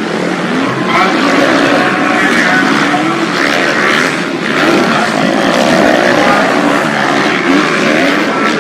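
Several motocross bikes racing on a dirt track, their engines revving up and down as they ride past.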